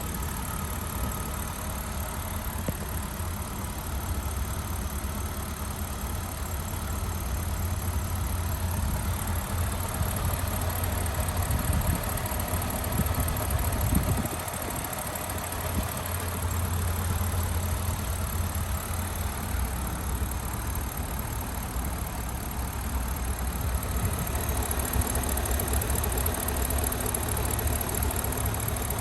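A 2006 BMW 650i's 4.8-litre V8 idling steadily. It swells slightly about halfway through, then settles back to idle.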